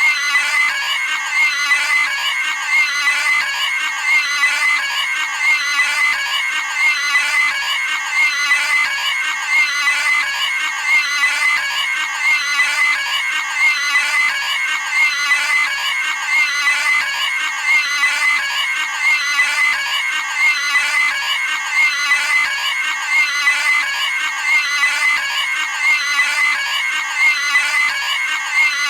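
A cartoon pig screaming: a high, shrill squeal repeated over and over at an even pace, about one scream every second and a half.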